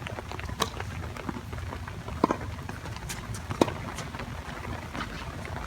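Tennis rally: a ball struck back and forth by racquets, giving sharp pops about every second and a half over a steady low background noise.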